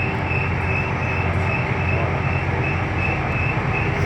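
Scania K320UB city bus heard from inside the cabin while under way: a steady diesel engine hum with road and body noise.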